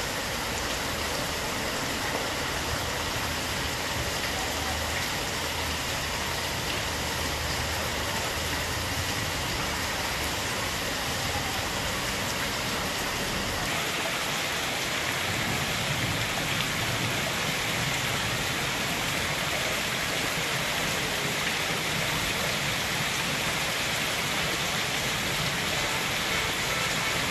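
Heavy rain falling steadily on a waterlogged street, a continuous even hiss of rain and water that turns a little brighter about halfway through.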